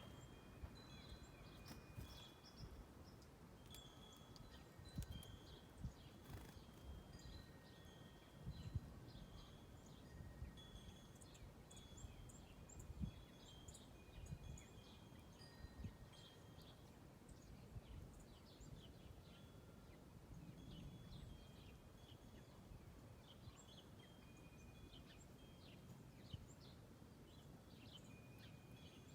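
Faint chorus of backyard songbirds: many short chirps and brief whistled notes from several birds, over a low rumble.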